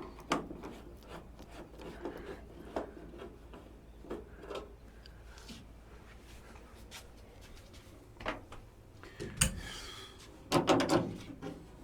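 Scattered clicks, clinks and rubbing of hand tools and metal parts as a truck door latch is unscrewed and worked loose from the door, with one sharp knock about nine and a half seconds in and a short burst of clatter near the end.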